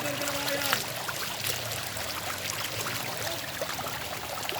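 Running water, a steady rushing and splashing, with scattered small clicks over it.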